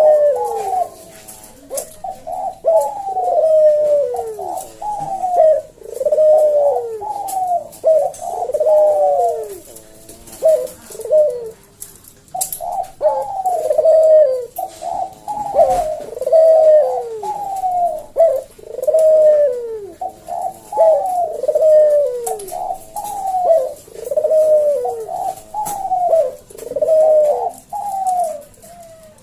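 Puter dove (Javan domestic turtle dove) cooing its slow, spaced "kuk deruk" song: phrases of repeated falling coos, with a short pause about a third of the way through.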